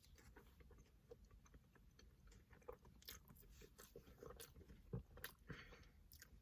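Faint close-up chewing and biting of a breaded, fried jalapeno popper dipped in ranch, with scattered soft crunches and mouth clicks, a few louder ones past the middle.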